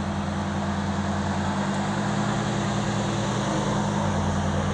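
Car engine running with a steady, low multi-tone drone, its pitch holding level rather than revving.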